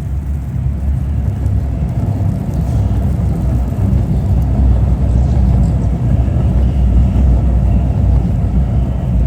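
Low, steady rumble of road traffic on a city street, growing a little louder over the first few seconds and then holding.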